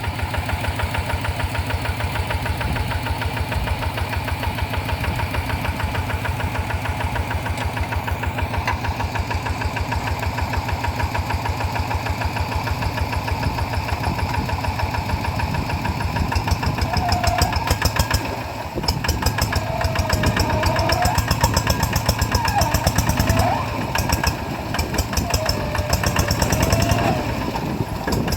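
Single-cylinder diesel engine of a two-wheel paddy-field hand tractor running with a steady, rapid pulse. It gets louder a little over halfway through, and some wavering higher-pitched sounds come in over it.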